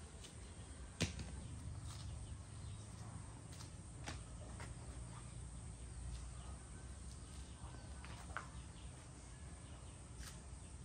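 Low, steady rumble with scattered small clicks and knocks, the sharpest about a second in.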